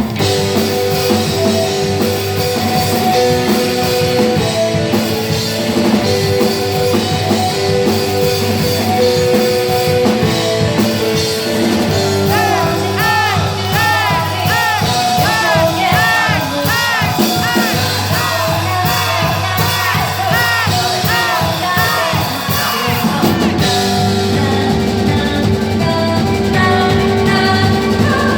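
Rock band playing live: drums, bass and electric guitar at full volume, with a high part that swoops up and down over and over through the middle stretch.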